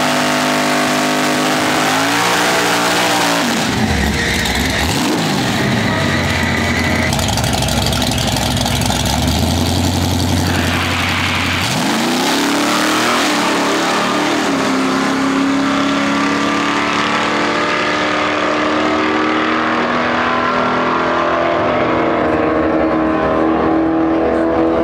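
Drag car's engine, a black 1980s Chevrolet Monte Carlo, revving high through a burnout, then dropping and blipping up and down, settling to a low, steady note, and revving again with the pitch climbing slowly toward the end.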